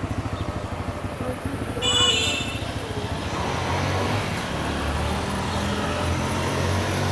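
Street traffic: a motor vehicle's engine running, with a brief high-pitched squeal about two seconds in, then a steady low engine drone from about three seconds in.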